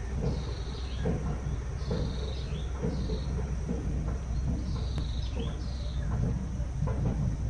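A bird calling over and over: short, high, falling chirps, often two in quick succession, every second or two. A steady low rumble runs underneath.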